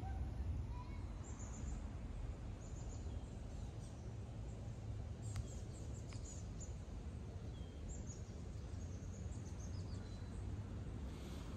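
Outdoor park ambience: small birds chirping in short, high calls over a steady low rumble, with two sharp clicks about halfway through.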